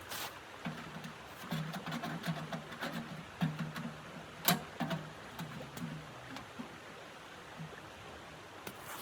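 Wood stove fire crackling: irregular sharp pops and snaps, one much louder about halfway through, over a low uneven rumble that fades out about two-thirds of the way in.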